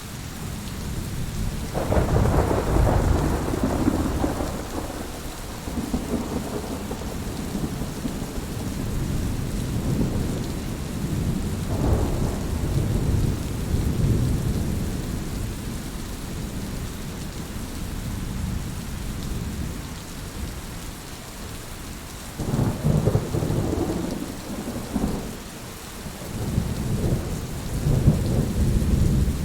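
Heavy rain falling steadily in a thunderstorm, with rolling thunder rumbling in over it: a loud peal about two seconds in, another around twelve seconds, and more rumbles near the end.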